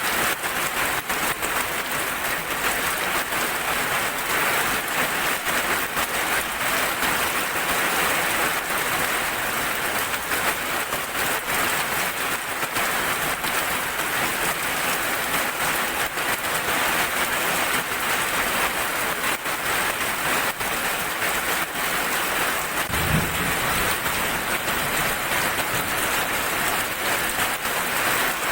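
Steady rain falling, a dense patter of drops on a surface. A single short low thump about three-quarters of the way through.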